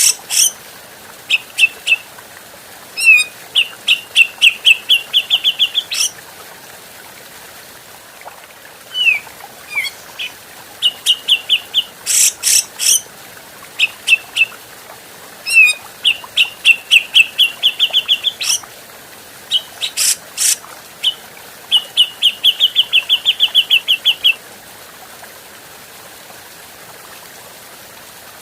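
Grey-cheeked bulbul (cucak jenggot) calling in runs of rapid, sharp, evenly repeated notes that speed up within each run, with a few short bursts of noise between them. The calling stops about 24 seconds in, leaving a steady hiss.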